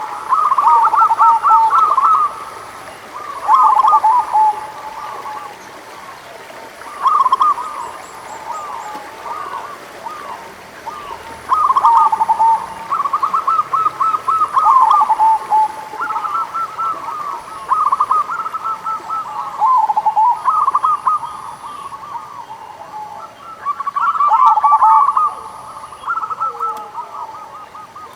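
Zebra doves (perkutut) singing: phrases of rapid stuttering coos, repeated every few seconds and at times overlapping one another.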